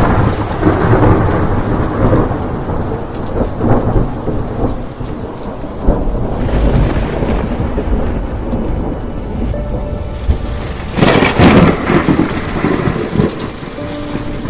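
Heavy rain pouring steadily while thunder rumbles low and continuously, with a louder, sharper thunderclap about three-quarters of the way through.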